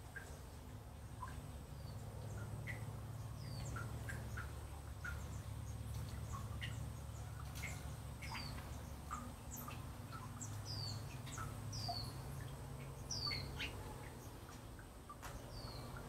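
Wild birds chirping and calling in scattered short notes, several of them quick downward-sliding chirps, over a low steady rumble.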